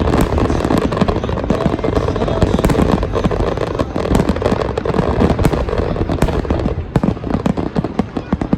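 An aerial fireworks display going off: a dense, continuous barrage of bursting shells and crackling, with a steady rumble under the many sharp cracks.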